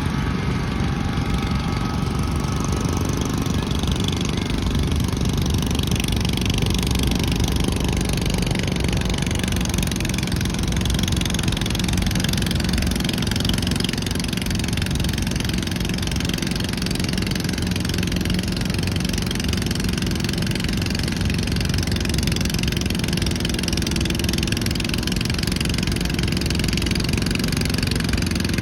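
Garden tractor engine running steadily, without sharp changes in pitch.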